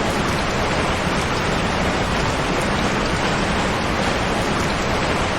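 Steady heavy rain, an even, unbroken hiss of downpour.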